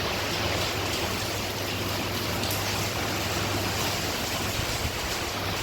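Heavy hurricane rain and wind, a steady dense hiss with no breaks.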